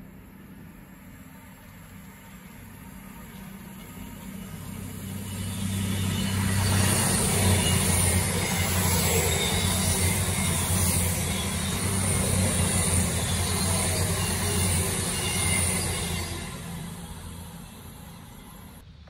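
Voyager diesel multiple-unit passenger train passing through the station at speed. Its underfloor engines hum steadily and the wheels and rails hiss, building as it approaches, loudest for about ten seconds as the coaches go by, then fading away.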